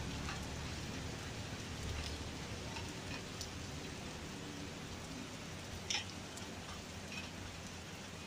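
Light rain falling steadily as an even hiss, with scattered single drops tapping on top; the loudest tap comes about six seconds in.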